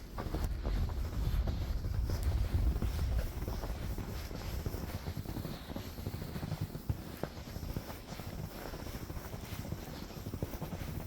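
Wind buffeting the microphone during a snowstorm, a low rumbling gusting that is strongest in the first few seconds and then eases, with a few scattered faint clicks.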